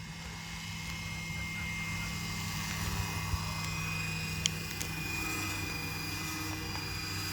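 Scale EC135 RC helicopter running: a steady high whine over a low hum that grows slightly louder over the first few seconds. A sharp click comes about four and a half seconds in.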